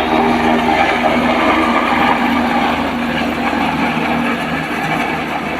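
Helicopter lifting off: its engine running loud and steady over the fast, even beat of the rotor blades.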